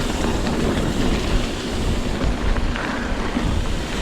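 Wind buffeting an action camera's microphone during a mountain bike ride in high winds, a steady low rumble.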